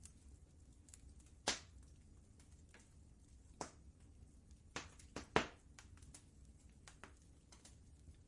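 Wood fire crackling in a fireplace: scattered sharp pops and snaps, the loudest a little past five seconds in, over a low steady rumble.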